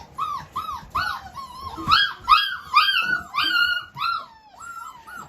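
Six-week-old Aussiedoodle puppies whimpering and yipping in a quick series of short, high-pitched cries, about three a second, loudest in the middle.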